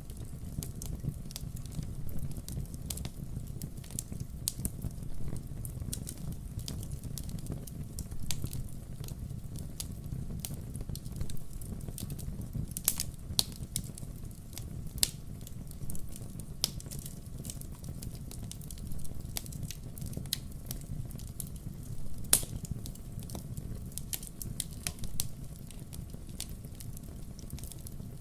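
Wood fire crackling: irregular sharp pops and snaps over a low, steady rumble of the burning logs.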